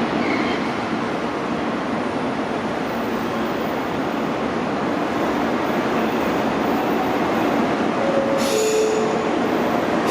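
Freight train rolling on the rails with a steady rumble. About eight seconds in there is a brief hiss with a short squeal.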